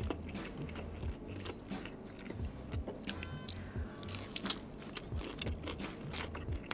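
Close-up chewing of a fried chicken thigh in a crisp batter coating: a steady run of small crunches and wet mouth clicks.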